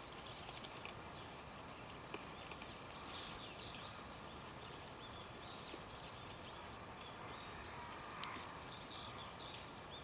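Faint outdoor ambience with scattered light clicks and a few short, high chirps, with one sharper click about eight seconds in.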